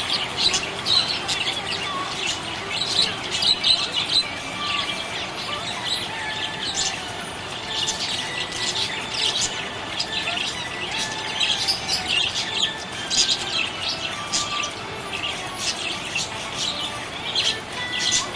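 Budgies chirping in a dense, unbroken run of short, high chirps: the happy chirping of contented budgerigars.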